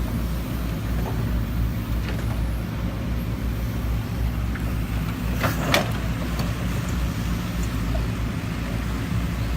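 Excavator diesel engine running steadily, with two sharp knocks in quick succession a little past halfway through.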